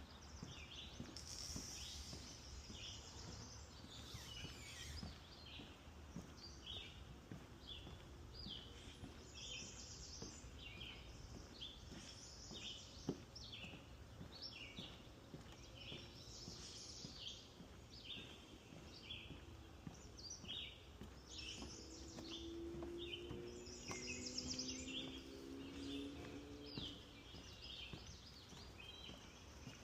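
Songbirds singing and calling throughout, with many short repeated chirps and bursts of higher twittering, over a faint steady background hiss. A low hum joins in about two-thirds of the way through and fades a few seconds later.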